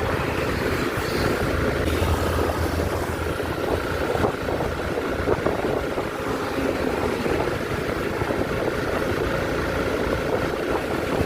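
Motorcycle running steadily on the road while riding, its engine rumble mixed with wind rushing over the microphone.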